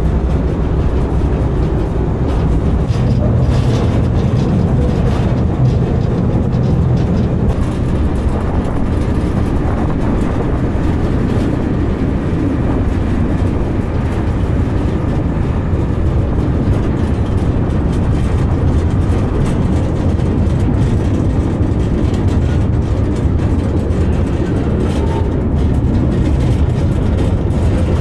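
Narrow-gauge train running along the line, heard from an open wagon: a steady low rumble of wheels on the rails and the train's running gear, with no let-up or change.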